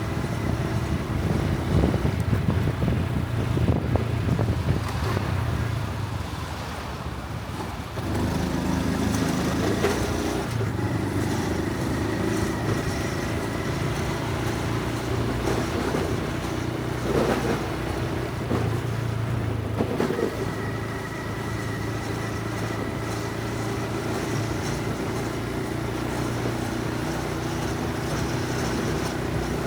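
Honda Super Cub C125's single-cylinder four-stroke engine and exhaust running on the road, heard from the rider's helmet. It eases off and quietens after about six seconds, then picks up again about eight seconds in and runs steadily.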